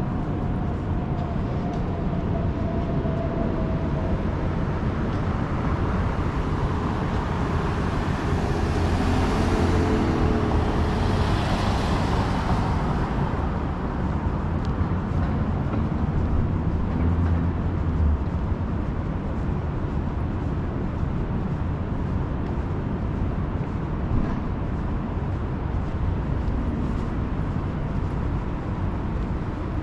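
Steady downtown street traffic with a low rumble, and one vehicle passing close that swells loudest about eight to thirteen seconds in.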